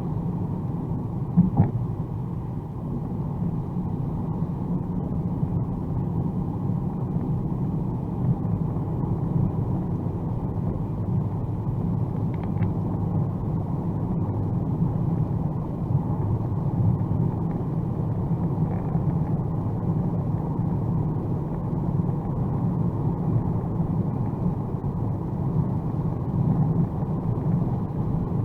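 Steady low rumble of road, tyre and engine noise from a 2021 Mercedes-AMG A35 4MATIC+ cruising on the motorway, heard from inside the car. A short thump about a second and a half in.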